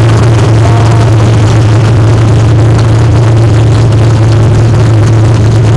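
Loud, steady running of dirt-track stock car engines, holding one low pitch without revving up or down.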